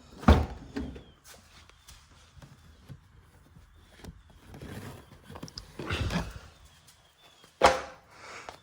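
Knocks, thuds and rubbing from items being moved about inside a car during cleaning: a sharp knock right at the start, a duller thud about six seconds in, another sharp knock near the end, and soft shuffling between.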